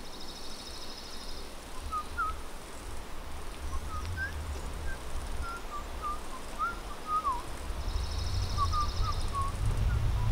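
Wild birds chirping: scattered short chirps and whistles, with a high, rapid trill at the start and again about eight seconds in, over a low steady rumble.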